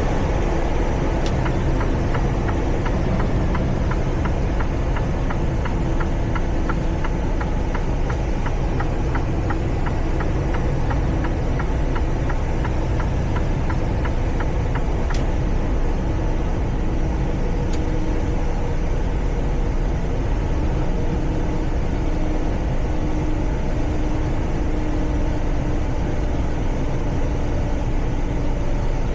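Semi truck cruising, heard from inside the cab: a steady engine drone and road rumble. A fast, regular ticking runs under it for roughly the first dozen seconds.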